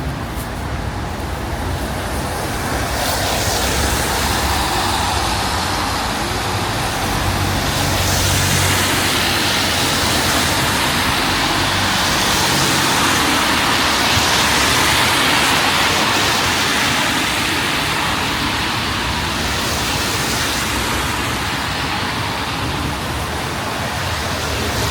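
Steady hiss of rain and car tyres on a wet city street. It swells a few seconds in and eases a little near the end, with a low engine rumble under it in the first half.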